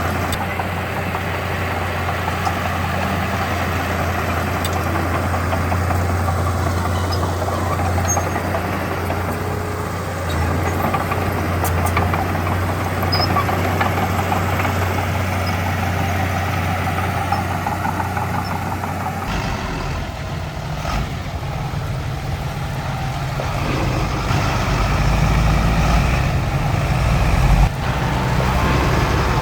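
Diesel engines of heavy earthmoving machines running: a steady hum that switches abruptly, about two-thirds of the way in, to a deeper and louder engine sound that grows louder toward the end.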